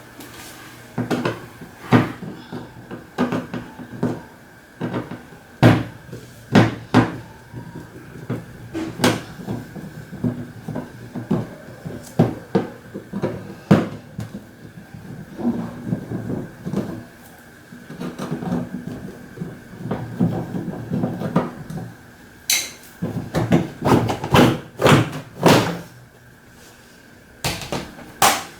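Knocking, clicking and clattering of a washing machine's housing being taken off by hand: irregular knocks throughout, with quick runs of several knocks in a row near the end.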